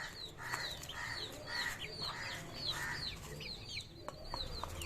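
Birds calling: a rapid run of short, high chirps falling in pitch, several a second, with rougher, lower calls mixed in.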